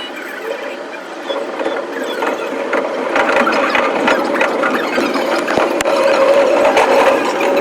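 Electric commuter train running: a continuous rattle of rapid clicks with a steady squealing tone, getting louder about three seconds in.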